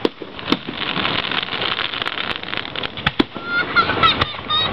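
Aerial fireworks bursting: a dense crackle with several sharp bangs, the loudest about half a second in and just after three seconds. Near the end a warbling tone whose pitch sweeps up and down joins in.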